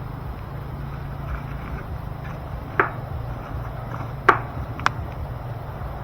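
Wood fire burning in a firewood stove, crackling with a few sharp pops, three of them loud, about three, four and five seconds in, over a steady low rumble.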